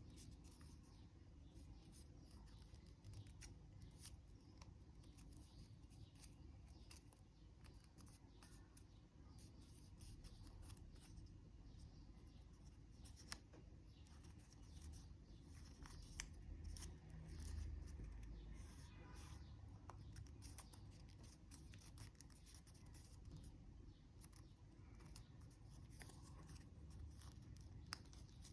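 Faint handling of a sheet of origami paper as it is folded and creased, with scattered small crinkles and taps over a low room hum.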